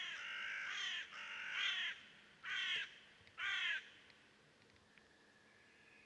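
A bird calls four times in a row. The first two calls are about a second each and the last two are shorter.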